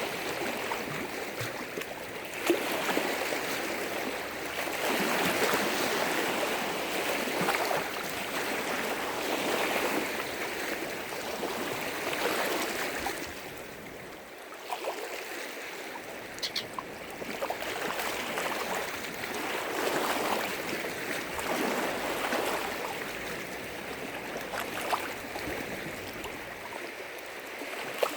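Lake waves breaking against the shore, swelling and easing every few seconds, with a few sharper splashes.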